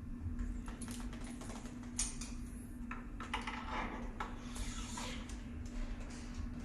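Scattered light clicks, taps and scrapes of small metal and plastic parts being handled, with a sharp click about two seconds in and a busier stretch in the middle, over a steady low hum.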